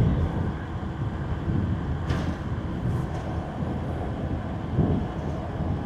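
Riding a motorbike on the road: a steady low rumble of the bike's engine and the road, with two short rushes of noise about two and three seconds in.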